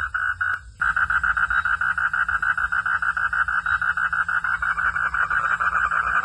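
Frogs calling at night in a rapid pulsed trill. It cuts out for a moment about half a second in, then resumes louder with faster pulses, over a steady low hum.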